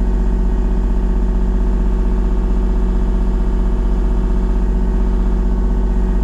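Excavator's diesel engine running at a steady speed, a constant low hum with no revving.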